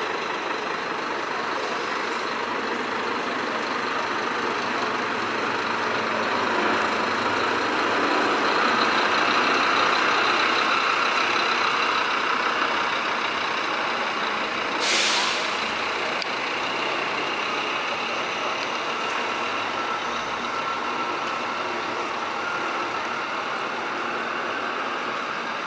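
Scania tour coach's diesel engine running, growing louder about a third of the way through and then easing off. A little past halfway comes a short burst of air hiss from the air brakes.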